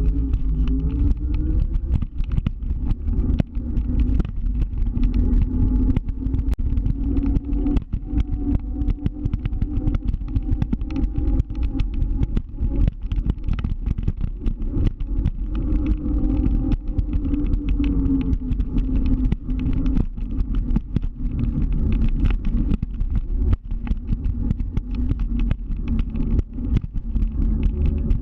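Motor scooter's engine running while riding at a fairly steady speed, its tone holding roughly even over a heavy low rumble.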